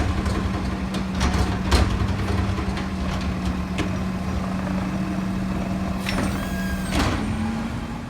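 Garbage truck running with a steady engine hum and low rumble, with scattered knocks and clanks. About six seconds in comes a short hiss of air, like an air brake releasing.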